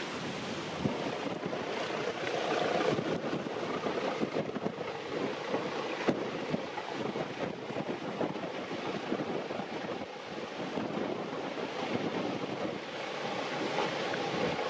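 Gusty wind blowing across the microphone, a steady rushing noise that rises and falls in strength.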